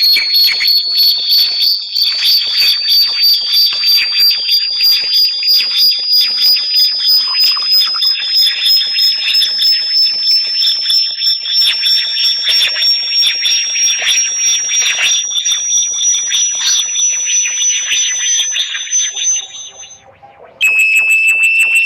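Electronic bat-repellent tone: a loud, high-pitched whistle that pulses about three times a second while gliding slowly upward in pitch. Near the end it fades out and breaks off, then a lower tone starts abruptly and also begins to rise.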